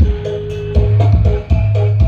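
Loud electronic dance music played through a huge carnival 'sound gler' sound system, with a heavy, pounding bass beat under short repeated synth notes.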